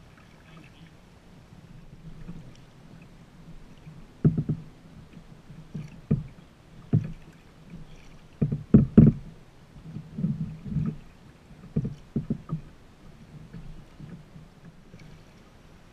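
Kayak being paddled: irregular dull knocks and slaps of paddle and water against the hull, over a low wash of water. The knocks come mostly in the middle, loudest in a cluster about nine seconds in.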